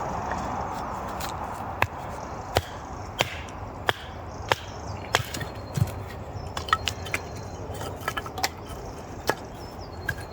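Firewood being chopped or split by hand: about a dozen sharp wooden knocks at an uneven pace, roughly one every half second to second.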